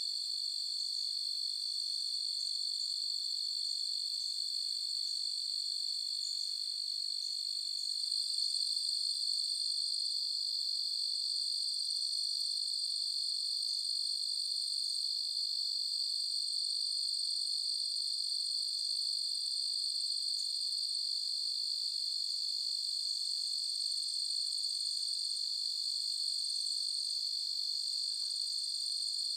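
A chorus of crickets trilling steadily on a summer night, a continuous high-pitched drone that grows slightly louder about eight seconds in.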